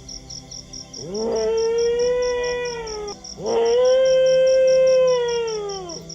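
A dog howling twice: two long howls, each rising quickly, holding steady, then falling away at the end, the second one louder. A high chirping pulses underneath at about four pulses a second.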